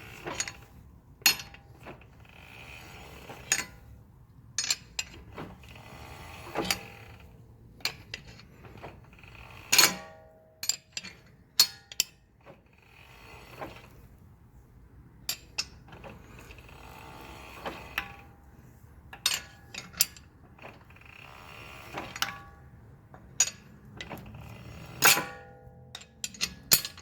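Brakes scraping in repeated stretches of a second or two, with sharp irregular ticks and clicks in between; a few of the clicks, the loudest about ten seconds in and near the end, ring briefly like metal.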